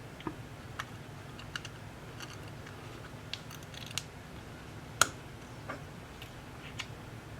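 Sparse small clicks and taps of hand tools working on a tablet during repair, with one sharper click about five seconds in, over a steady low hum.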